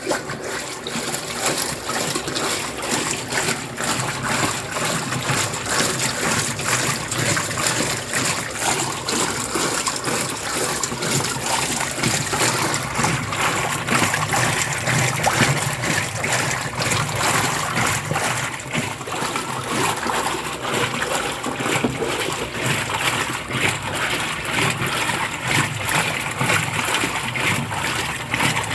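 Brastemp Ative 11 kg washing machine running, with water splashing and trickling steadily inside it.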